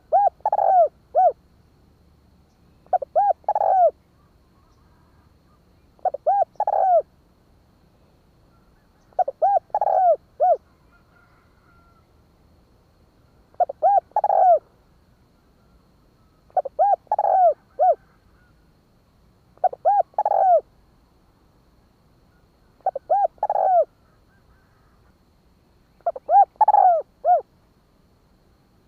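Spotted dove cooing: short phrases of three or four coos, repeated about every three seconds. It is a decoy call meant to draw wild doves in.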